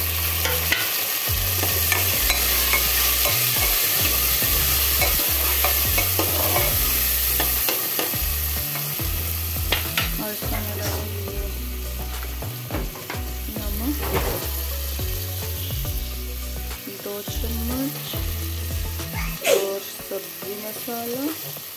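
Chopped onion and tomato sizzling in hot oil in a pressure cooker pan, stirred with a metal ladle that now and then scrapes and clinks against the pan. The sizzle is strongest at first and dies down over the second half, and the loudest clink comes near the end.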